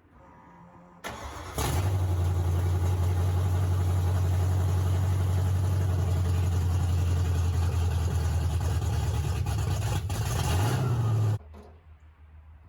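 A freshly built 351 Windsor small-block Ford V8 in a 1969 Ford F100 is started for the first time: a brief crank, then it catches about a second and a half in. It runs at a steady fast idle, picks up slightly in pitch near the end, and is shut off abruptly, run only briefly because no coolant is in it yet.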